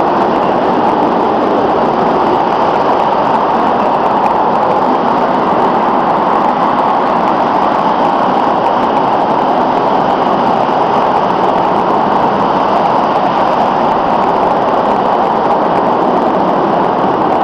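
Freight train of double-deck car-carrier wagons rolling past close by: a loud, steady noise of steel wheels on the rails that holds even throughout.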